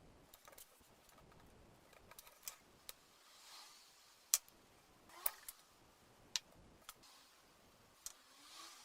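Scattered sharp light clicks and taps, about a dozen at uneven intervals, the loudest about four seconds in, with soft brushing swells about three and a half seconds in and near the end: small parts and tools being handled during restoration work.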